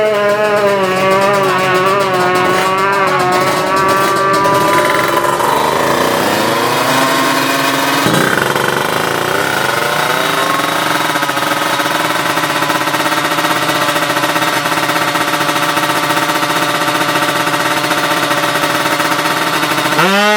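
Tuned two-stroke Kawasaki Ninja 155 drag-bike engines running at high revs. The pitch sweeps down and climbs back up around the middle, then holds steady and high.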